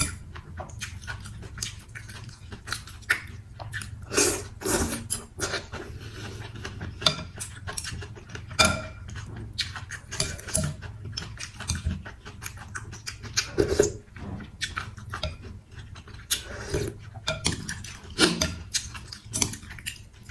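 Close-up eating sounds of mì Quảng chicken noodle soup: irregular chewing, lip smacks and slurps, one after another, over a steady low hum.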